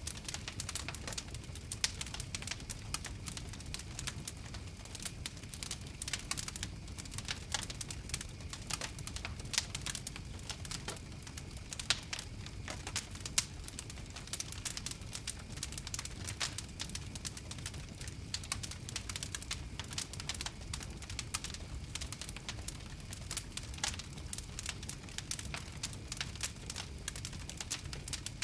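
Wood fire crackling: a dense, irregular run of sharp pops and snaps over a steady low rumble.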